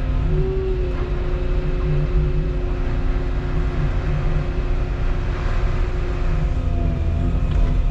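Diesel engine of a Volvo 235EL excavator running steadily with a low rumble, with a steady machine whine over it.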